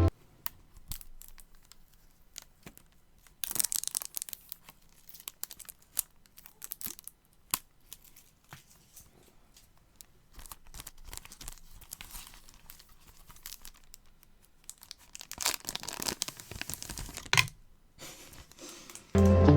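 Packaging being torn open and crinkled by hand: tearing and crinkling rustles in bursts, with small clicks and taps between. There is a short loud burst about four seconds in and a longer one near the end.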